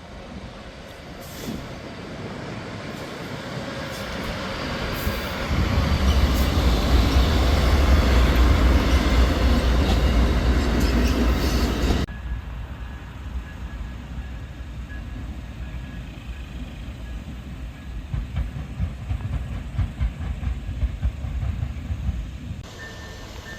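Amtrak train passing: its rumble builds to a loud pass and cuts off suddenly about twelve seconds in, followed by a quieter low rumble with repeated knocks of wheels on the rails.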